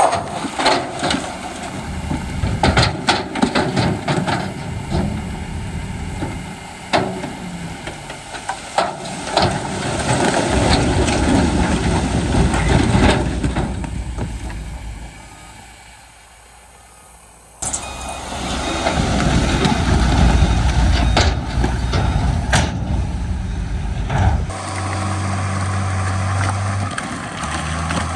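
Heavy diesel earthmoving machinery working: engines running with scattered sharp knocks and clatter, the sound changing abruptly twice, about two-thirds in and near the end, where a steady low engine hum is left.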